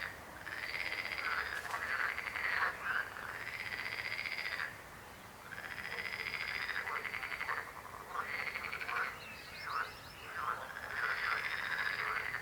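A chorus of frogs croaking: overlapping, rapidly pulsed calls, each lasting one to two seconds, following one another with short gaps and a brief lull about five seconds in.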